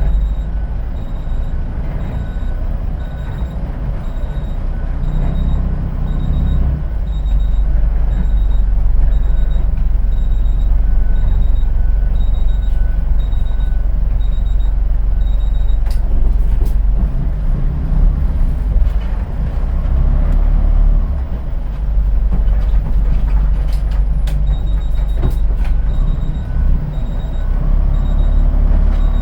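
Inside a city bus on the move: the engine and road rumble run low and steady and grow louder a few seconds in. A high beep repeats about twice a second through the first half and again near the end, with a few sharp clicks in between.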